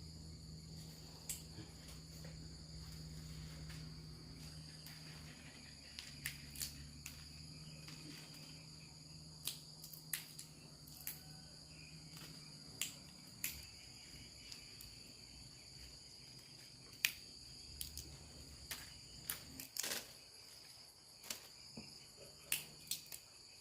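Insects trilling steadily on one high pitch, with scattered sharp clicks and knocks of handwork. A low hum is under the first half and fades out a little past the middle.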